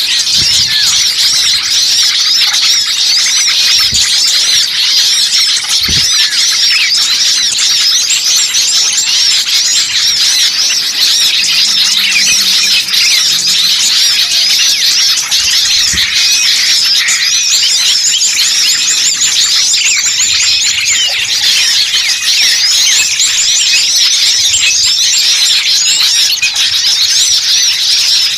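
Dense, continuous chorus of many small birds chirping and twittering at once. It is a busy bird-lure recording of the kind played to draw wild small birds in.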